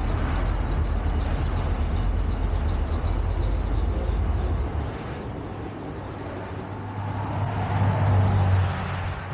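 A motor vehicle running with a steady low rumble that drops off about five seconds in and rises again near the end.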